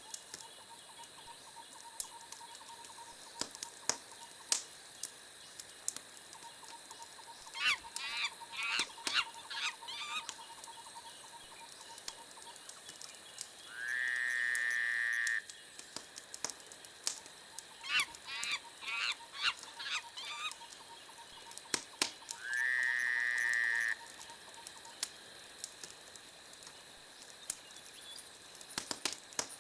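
Wood fire crackling with scattered sharp pops. Animal calls sound over it twice: each time a quick chattering run, then a held pitched call of about a second and a half, which is the loudest sound.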